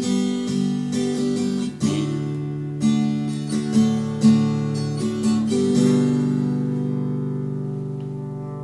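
Acoustic guitar playing the closing chords of a slow song, strummed and plucked one after another, then a final chord left to ring and slowly fade from about six seconds in.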